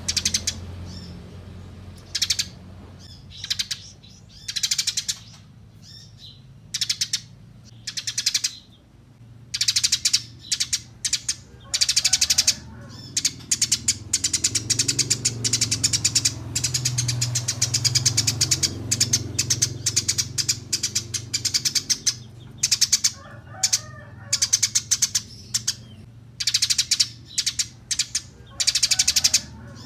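Eurasian tree sparrow chirping in quick, high runs of notes, some runs short and one long unbroken run in the middle, over a low steady hum.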